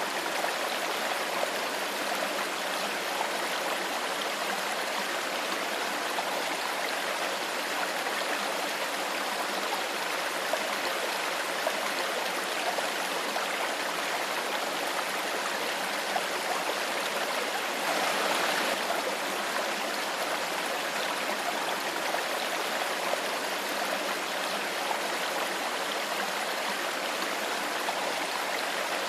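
Clear stream water flowing steadily with a continuous rushing and gurgling, briefly a little louder about two-thirds of the way in.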